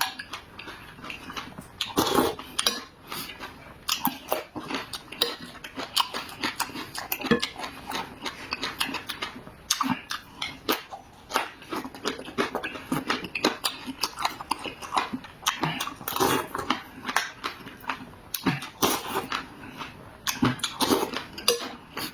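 Close-miked mouth eating sounds: chewing, smacking and biting of food, with many irregular short clicks and wet smacks.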